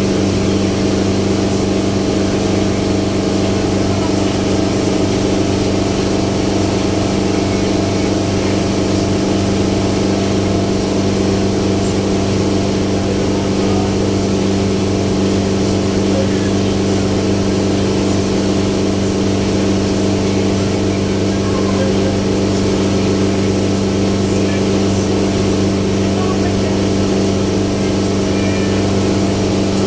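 Passenger ferry boat's engine running at a constant speed, a steady low drone.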